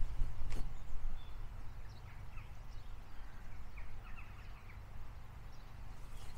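Outdoor ambience: a steady low rumble with a scatter of short, high bird chirps in the middle, and a single click near the start.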